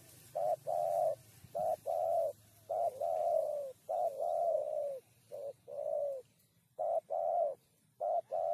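Spotted dove cooing: a regular series of paired coos, each a short note followed by a longer one, repeated about seven times.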